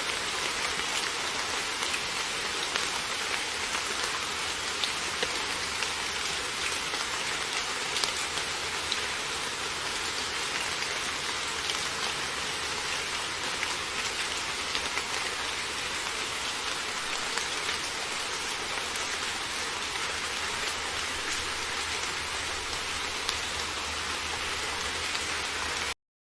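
Heavy rain falling steadily, a dense even hiss of drops hitting a surface with scattered individual drop ticks. It stops abruptly near the end.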